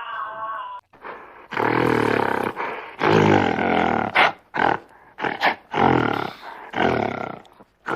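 Big cat roaring: after a higher, steady call cuts off about a second in, a series of deep roars begins, two long ones, then shorter grunting calls coming faster.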